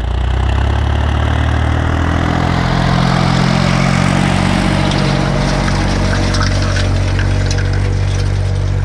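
Ursus C-360 3P tractor's three-cylinder diesel engine running steadily. The engine note thickens about two to three seconds in, and light clattering ticks come through in the second half.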